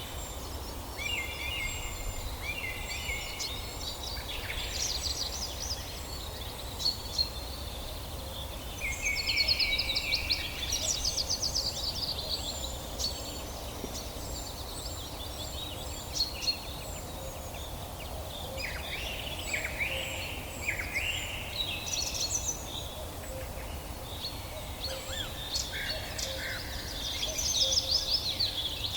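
Several songbirds singing and calling together, a mix of trills, chirps and thin high repeated notes, over a steady low background rumble.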